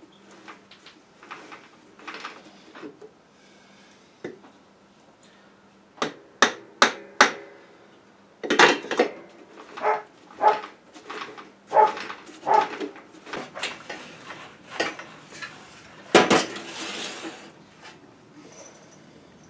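Metal knocking and clanking in a workshop, irregular sharp strikes, some ringing briefly. Four quick knocks come about six seconds in, then a run of uneven knocks, the loudest near sixteen seconds.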